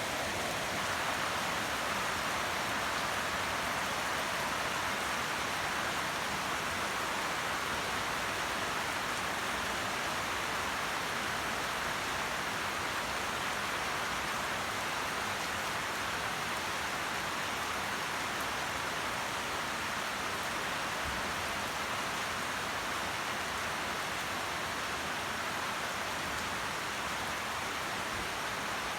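Heavy rain falling steadily, an even hiss of rain on surfaces with no change in strength.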